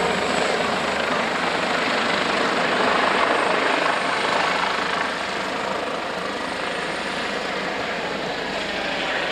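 Airbus H145M military helicopter flying past in a display, with steady rotor and turbine noise. The noise grows loudest about three seconds in, then eases slightly.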